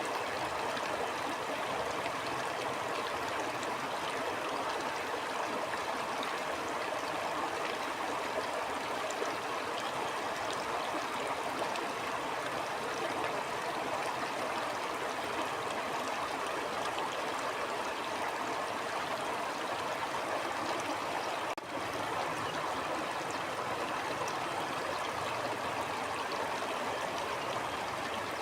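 A stream flowing, a steady rush of water, with a momentary dropout about three quarters of the way in.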